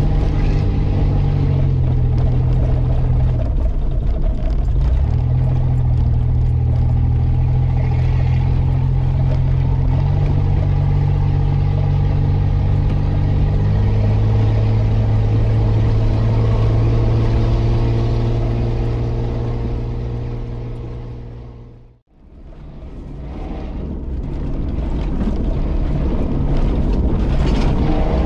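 Off-road 4x4's engine running as it drives slowly along a dirt trail, heard inside the cab. Its pitch steps up and down several times with throttle changes. The sound fades out and back in about 22 seconds in.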